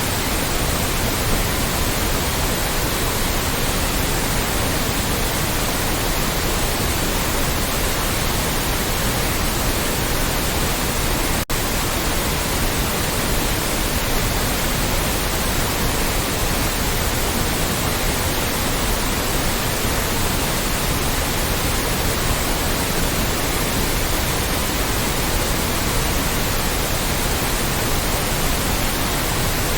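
Loud, steady white noise, an even hiss across the whole range with no tones or rhythm, broken once by a very brief dropout about eleven seconds in.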